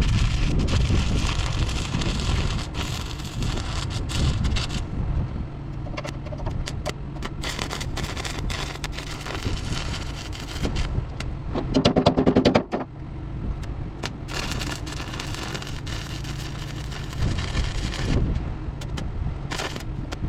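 Welding arc crackling and sizzling steadily on a truck's steel fender, with a brief pitched hum about twelve seconds in.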